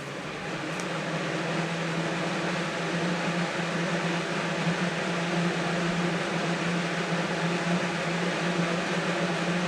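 A new-old-stock 1980–81 Lasko Galaxy 3712 12-inch box fan on its first run on high: a steady low motor hum under the rush of air, coming up to speed over the first second or two and then holding level. It runs quietly.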